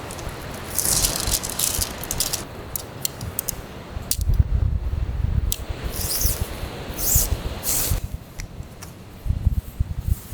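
Tent being pitched by hand: irregular rattling and rustling with sharp clicks of gear being handled. Low rumbles of wind buffet the microphone in places, strongest about four seconds in and near the end.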